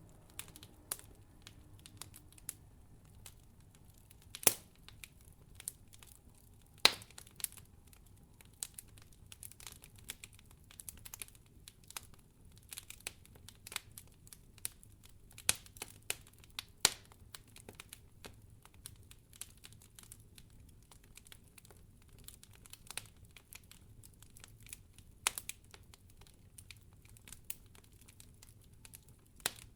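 Wood fire crackling in a fireplace: constant irregular small pops and crackles, with a few louder snaps, over a faint low steady hum.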